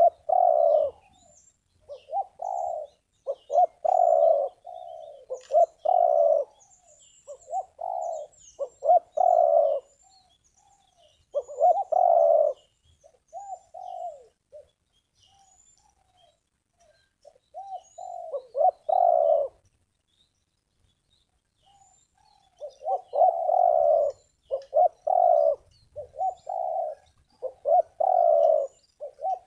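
Spotted dove (terkukur) cooing in repeated phrases of several coos, breaking off for a few seconds past the middle before starting again. Faint chirps of small birds sound above it.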